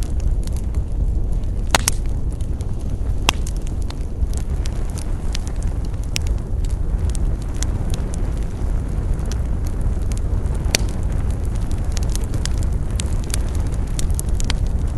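Wood campfire burning, with a steady low rumble under frequent small crackles and a few sharper pops, the loudest about two, three and eleven seconds in.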